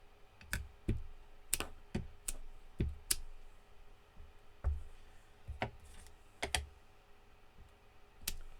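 Irregular sharp clicks and knocks of small hard crafting items being handled and set down on a tabletop, about a dozen over several seconds.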